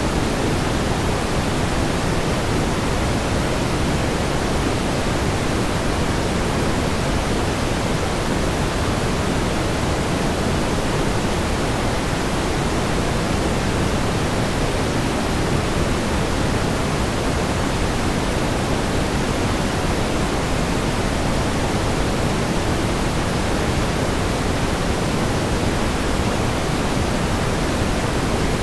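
Steady synthetic pink noise: an even hiss without tones or events, heavier in the lows and falling off toward the highs.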